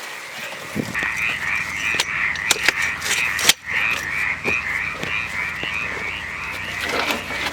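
A rhythmic outdoor animal chorus of high, rapidly repeated calls, several a second, with scattered sharp clicks over it and a brief dropout about halfway through.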